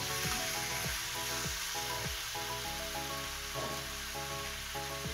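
Chicken and onion-tomato masala sizzling in a frying pan while being stirred with a spatula, under steady background music.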